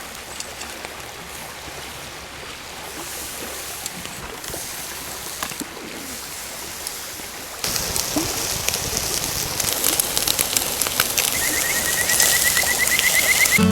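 River water running over stones, a steady rushing that grows louder about eight seconds in. Bird calls sound over it, with a quick rising trill of chirps near the end.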